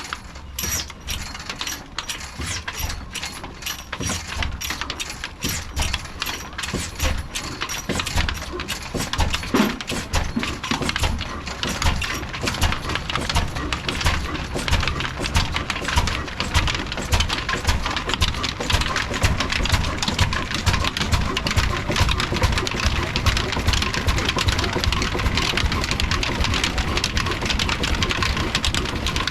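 Old single-cylinder desi diesel engine running with a regular firing beat. The beat quickens and grows denser over the first ten seconds or so, then runs steadily under a noisy hiss.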